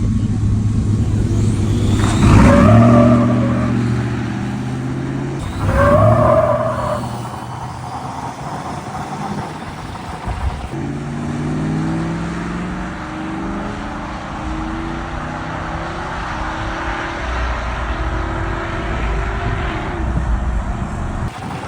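Squatted pickup truck's engine revving hard twice, then pulling under acceleration with its note climbing steadily during a drag-race run.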